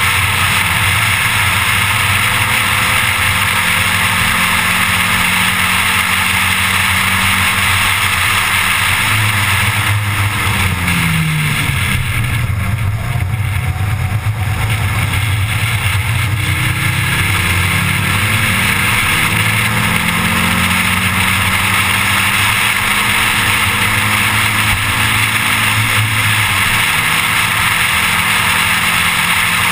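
1987 Audi 4000S engine running hard on a race track under a steady hiss of wind and road noise. About ten seconds in the engine pitch falls as the car slows for a tight corner, then climbs again as it accelerates out and up through the gears.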